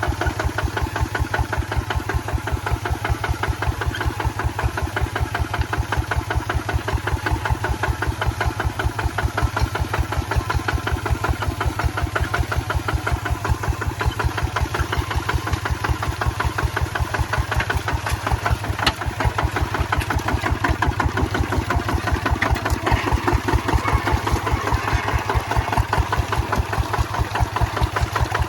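Kubota ZT155 two-wheel tractor's single-cylinder diesel engine running steadily with an even, rapid beat.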